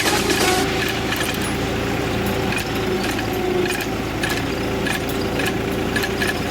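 New Holland 5500 tractor's diesel engine running steadily under cultivator work, with irregular knocks and rattles. Background music fades out about half a second in.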